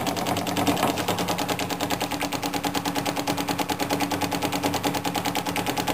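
Small flame-eater (vacuum) model engine running, a rapid, even clatter of about fourteen beats a second. It is still warming up from cold.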